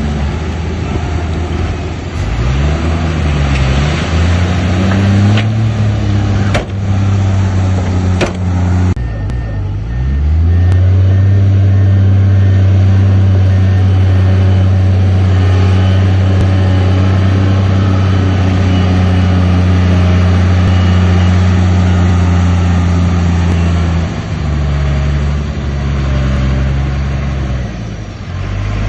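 Heavy earthmoving machine's diesel engine working. Its pitch rises and falls through the first ten seconds, with a couple of sharp knocks, then holds at steady high revs for about fourteen seconds before dropping back near the end.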